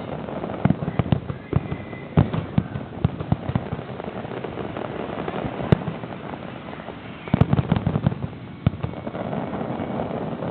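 Fireworks display: a series of sharp bangs and crackles over a steady rumble, in bunches, with a strong single bang a little past the middle and a dense cluster of bangs soon after.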